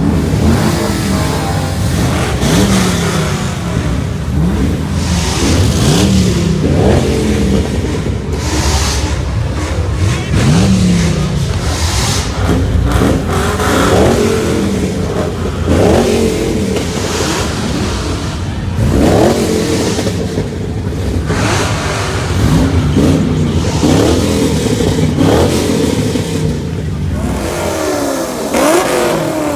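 Many Chevrolet Camaro engines revving at once through their exhausts. Repeated overlapping revs rise and fall in pitch every second or two over a loud, continuous engine drone.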